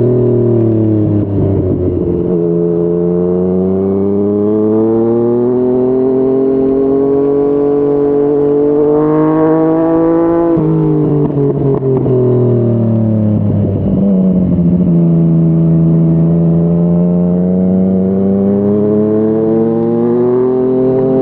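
Yamaha MT-09's three-cylinder engine through a Yoshimura R55 slip-on exhaust, riding under load. The revs climb steadily, drop sharply about ten seconds in and sink for a few seconds, then climb again toward the end.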